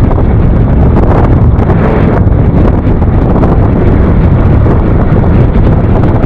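Loud, steady wind buffeting on the microphone of a moving motorcycle, a dense low rumble with no clear engine note.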